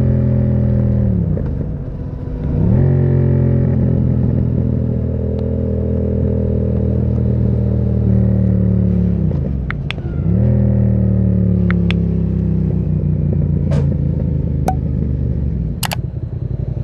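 Yamaha MT-07's parallel-twin engine through a Termignoni exhaust, running at steady revs that twice dip and climb back quickly, about two seconds in and about ten seconds in. A few sharp clicks sound in the second half.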